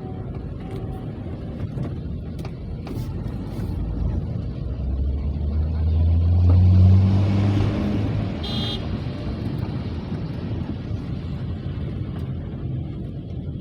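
A motor vehicle passes over a steady low rumble; its engine and tyre noise swell to a peak about seven seconds in, then fade away. A brief high-pitched squeak comes just after the peak.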